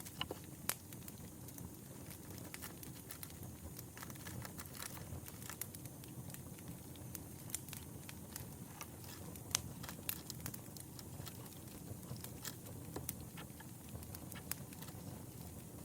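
Campfire crackling: irregular sharp pops and snaps scattered over a low, steady rumble of burning wood.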